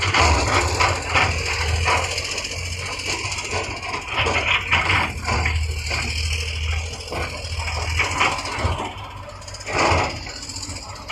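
Heavy machinery diesel engine running steadily under many irregular metallic clanks and knocks, with a louder knock about ten seconds in.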